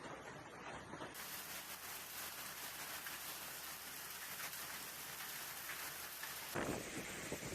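Heavy rain falling on a surface, a dense, even hiss. Near the end it cuts abruptly to a rougher, louder noise.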